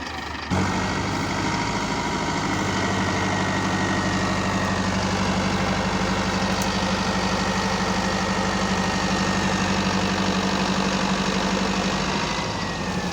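Heavy diesel engine of the Mahindra tractor harvester running steadily at high revs, with a faint high whine over it. It comes in abruptly about half a second in and eases slightly near the end.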